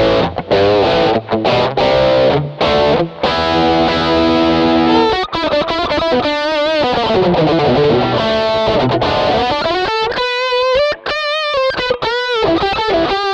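Distorted electric guitar played through an MXR Rockman X100 pedal: choppy chords with short stops for about five seconds, then sustained lead notes with wide vibrato.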